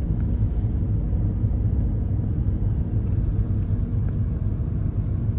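Steady low rumble of a vehicle on the move, engine and road noise heard from inside the cabin.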